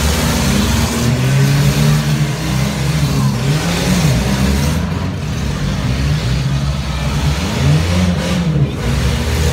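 Engines of several compact demolition-derby cars revving and running, their pitches rising and falling as they accelerate and back off.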